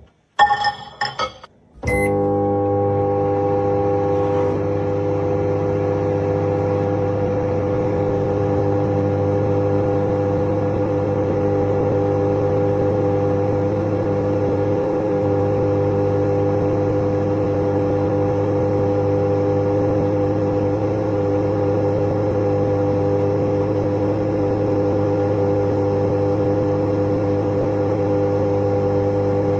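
A few short beeps and clicks, then a microwave oven starts about two seconds in and runs with a steady electrical hum.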